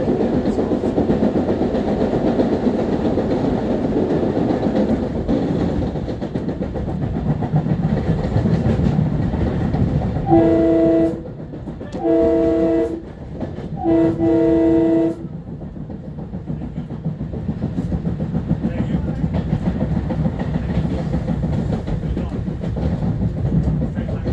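LIRR M3 electric train running along the rails with a steady rumble and clatter. About ten seconds in, a multi-note train horn sounds four times in a long, long, short, long pattern, and the running noise is quieter after it.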